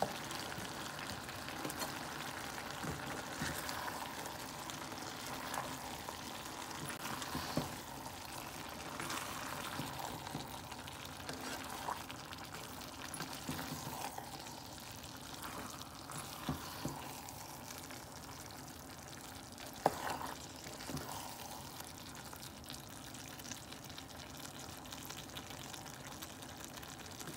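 Okra and tomato-onion masala sizzling in a pot as it is stirred with a wooden spoon, with scattered knocks and scrapes of the spoon against the pot.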